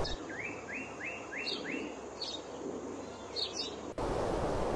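A bird chirping: a quick run of five rising notes in the first two seconds, with a few higher chirps scattered through. Near the end a steady outdoor hiss comes in.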